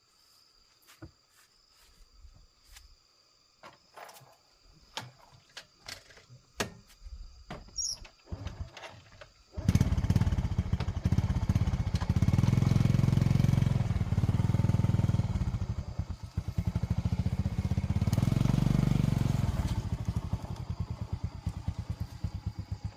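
Scattered knocks and clicks that grow louder. Then, about ten seconds in, a motorcycle engine starts suddenly and runs, its sound rising and falling twice.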